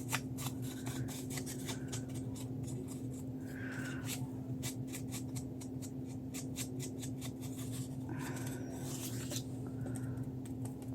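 Ink blending tool scrubbing ink around the edges of a paper cutout: a run of quick, scratchy strokes on paper, over a steady low hum.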